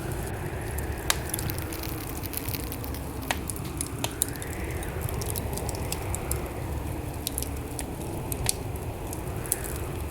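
Wood fire burning in a fireplace: a steady low rumble of flames with irregular sharp crackles and pops, the loudest about a second in and again near the end, and a soft hiss that swells and fades a few times.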